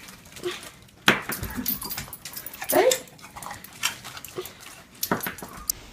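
A dog making several short vocal sounds, the loudest and sharpest a little over a second in, another near the middle sliding up and back down in pitch.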